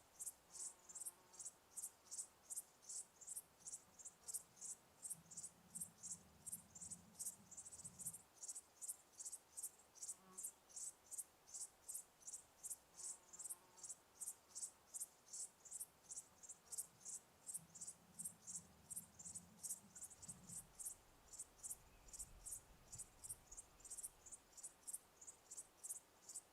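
Crickets chirping in a steady, even rhythm, about three high-pitched chirps a second.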